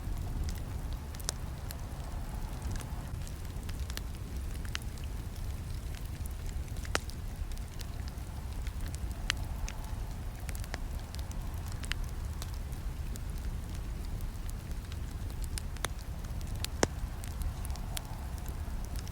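Campfire burning with a steady low rumble of flames and scattered sharp crackles and pops from the wood, two louder snaps about 7 and 17 seconds in.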